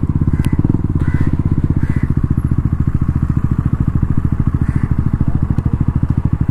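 A 200 cc single-cylinder motorcycle engine idling steadily with an even, rapid pulse.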